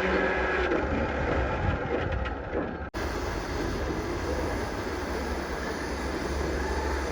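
Steady mechanical noise with a low hum, typical of machinery running in a workshop. It cuts out abruptly for an instant about three seconds in, then resumes.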